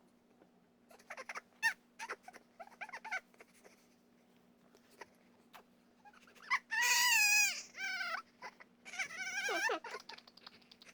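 Baby fussing and crying in short, wavering wails, with small whimpers in the first few seconds and the loudest cry about seven seconds in, then another near nine seconds. A faint steady hum runs underneath.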